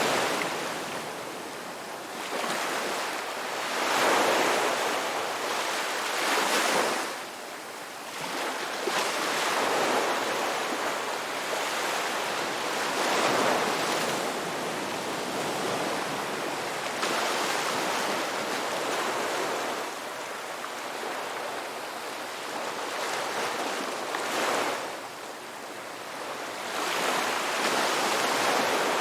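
Ocean waves breaking and washing up a beach, a steady hiss of surf that swells every few seconds as each wave comes in.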